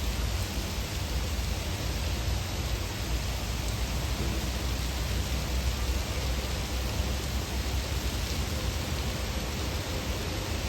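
Heavy rain pouring down steadily, a dense even hiss with a low rumble underneath.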